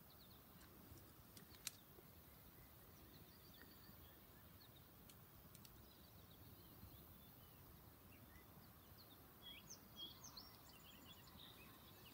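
Near silence: faint outdoor ambience with scattered distant bird chirps, more of them near the end, and a single click about a second and a half in.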